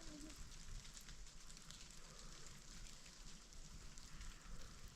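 Light rain pattering, faint and steady, with scattered small ticks.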